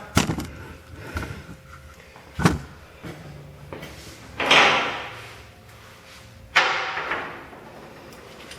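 Scattered sharp metal knocks and clanks of tools on the exhaust tailpipe and its clamp, with a short rasping noise about four and a half seconds in and a louder clank that rings down near the two-thirds mark.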